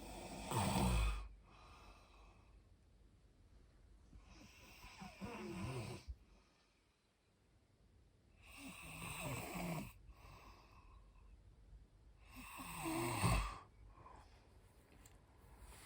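A person snoring, four snores about four seconds apart.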